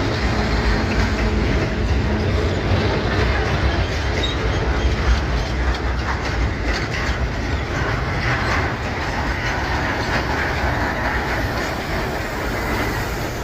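Loaded freight cars rolling past, their wheels clacking steadily over the rail joints, the sound slowly fading near the end.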